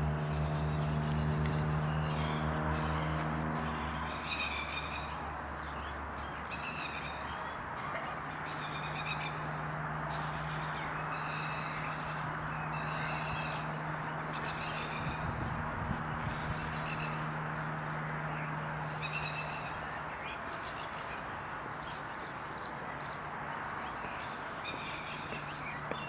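Outdoor ambience: a steady rushing noise and a low hum, with short chirping calls that repeat about every couple of seconds. The calls are typical of birds.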